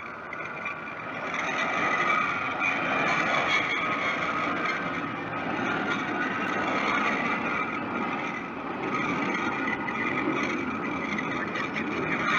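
Four GEnx jet engines of a Boeing 747-8 arriving, a noisy rush with a steady high whine, swelling over the first two seconds and then holding loud.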